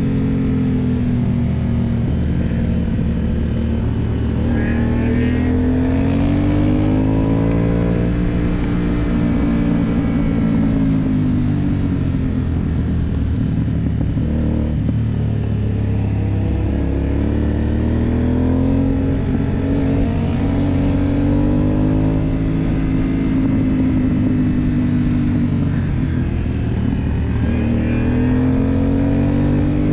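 Aprilia Dorsoduro 750's V-twin engine heard onboard, its revs rising and falling again and again as the bike accelerates out of bends and slows into them on a mountain descent.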